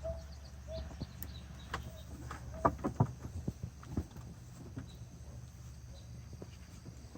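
Scattered knocks and clanks of metal shop equipment being moved and handled, with a cluster of sharper knocks about three seconds in, over a steady low hum.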